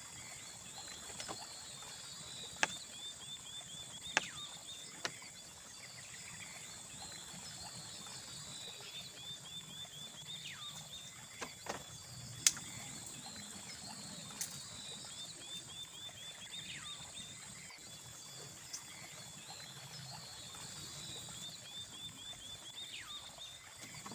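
Forest ambience: a steady high insect drone with a trill of quick chirps repeating about every six seconds, over a faint low wash of water. A few sharp knocks break through, the loudest about halfway.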